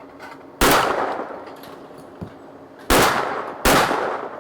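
Three shotgun shots at clay targets: one shot, then about two seconds later two more in quick succession, less than a second apart, each with a long fading echo.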